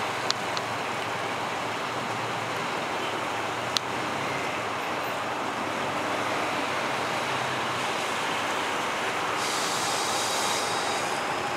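TGV Duplex double-deck high-speed train rolling slowly past, a steady rumble of running gear and traction equipment mixed with background traffic noise. A few sharp clicks come early on and about four seconds in, and a brief high hiss sounds near the end.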